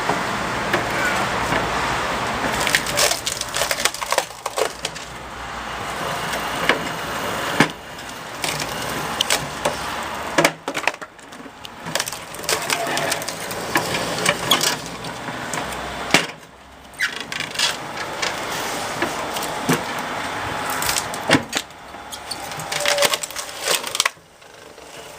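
Screw-cone log splitter forcing a log apart: the wood cracks and splinters again and again over a steady running noise, with a few brief lulls.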